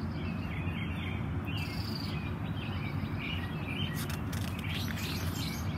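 Birds chirping now and then over a steady low background noise.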